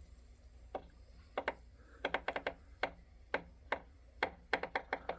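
Concept2 rowing machine's chain and flywheel drive clicking in irregular stutters as the chain is pulled: single clicks and quick runs of several clicks, loudest about two seconds in and near the end. It is a clicking noise and stutter at the start of the pull that the owner does not remember and that goes away when he pulls faster.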